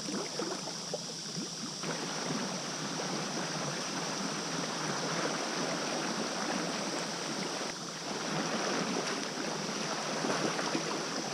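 River water splashing and sloshing as it is scooped up and collected for washing clothes. The splashing thickens about two seconds in and carries on irregularly after that.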